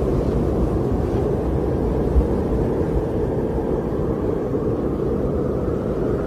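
Steady winter wind blowing, a low rushing rumble with a short low buffet about two seconds in.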